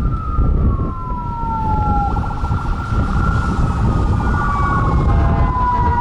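Several fire truck sirens sounding together over heavy engine and road rumble: a Federal Q2B mechanical siren's wail slides slowly down in pitch, layered with electronic siren tones, one of them pulsing rapidly from about two seconds in.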